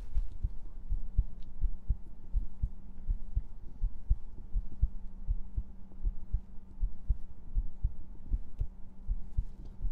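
Heartbeat played as an ASMR trigger: soft low thumps repeating in a steady rhythm over a faint steady hum.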